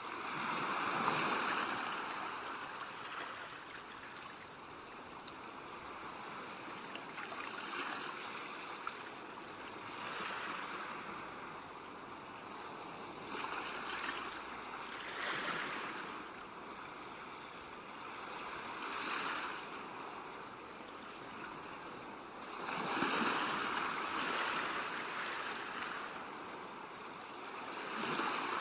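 Ocean waves breaking and washing on a shore, swelling and falling every few seconds, with the biggest surges about a second in and again about two-thirds of the way through.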